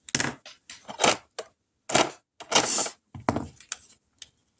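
A pen scribbling on paper to colour in a small circle on a savings chart: a series of short scratchy strokes with brief pauses between them.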